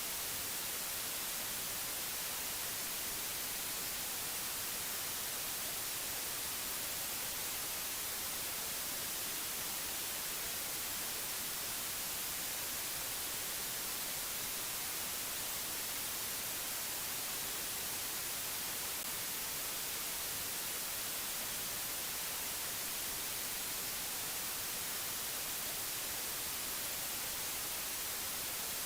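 Steady, even hiss of white noise, brightest in the high end, with no change or events.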